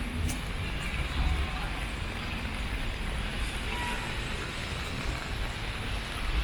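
A motor vehicle running steadily, a low rumble under an even hiss of background noise.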